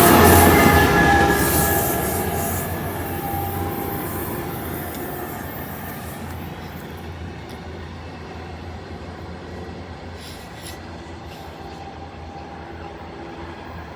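Train departing and moving away. Its rumble and rail noise are loudest at first, then fade steadily over about ten seconds to a low background.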